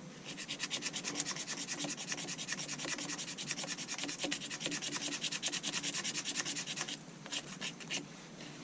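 Knife blade scraping resinous pine fatwood in quick, even strokes, several a second, to raise fine shavings for fire starting. The strokes stop about seven seconds in, and a few single scrapes follow.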